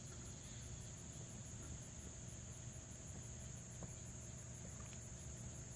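Faint, steady chorus of insects trilling, with a higher, evenly pulsing trill on top, about five pulses a second.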